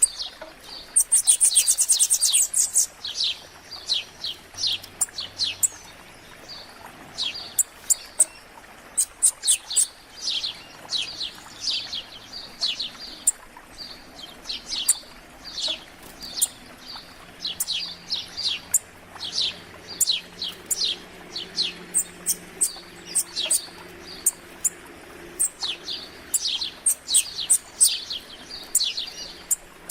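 Several small songbirds chirping in quick, high, short notes throughout. About a second in comes a rapid, very high trill lasting under two seconds, the loudest sound.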